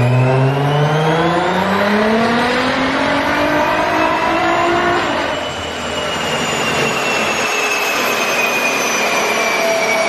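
Nissan GT-R engine through an Armytrix aftermarket exhaust, revving: the pitch climbs steadily for about five seconds, then drops off and winds down slowly, with a high whine falling away.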